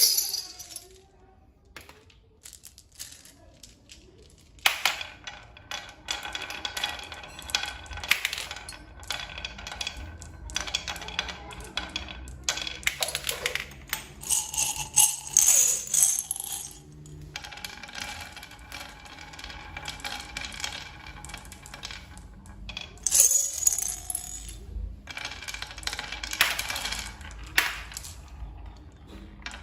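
Small hard objects clinking and jingling in irregular bursts, with a bright ringing. Quiet for the first few seconds, then busy clusters of clicks through the middle and again near the end.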